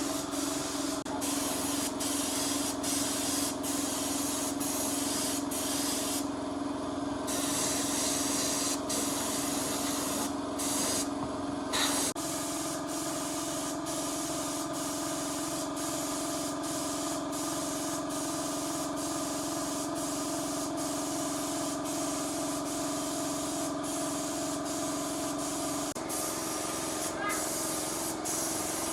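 Pressurised spray hissing steadily over a continuous motor hum. The hiss breaks off briefly about six and eleven seconds in while the hum carries on.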